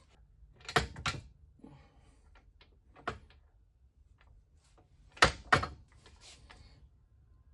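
An arbor press being worked to press a guide pin into an aluminum vise jaw: sharp knocks, a pair about a second in, a single one about three seconds in and a louder pair about five seconds in, with light clicks between.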